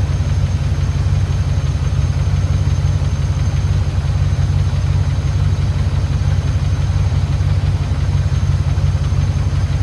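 P38 Range Rover engine idling steadily, with a bit of ticking still there that the owner puts down to a sticking valve or lifter, treated with Rislone.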